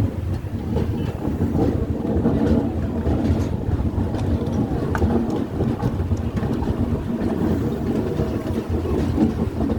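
Steady low rumble of a running passenger train, with wind buffeting the microphone and faint scattered clicks.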